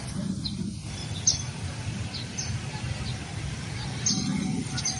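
Small birds chirping in short, high calls, one every second or so, over a steady low background rumble.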